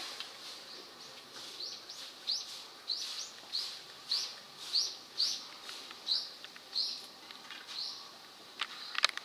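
A bird calling a series of short, high chirps, about two a second, followed by a few quick clicks near the end.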